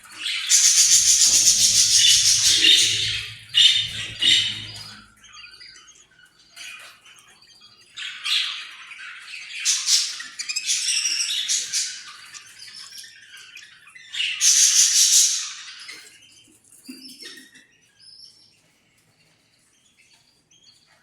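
An Australian parrot calling in loud, harsh squawks and chirps, in several bursts of a second or two with quieter gaps of small chirps between. A low hum runs under the first few seconds.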